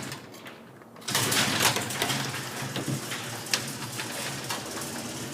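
Commercial overhead garage door operator starting up about a second in, its motor running with a steady hum and scattered clicks as the door rises.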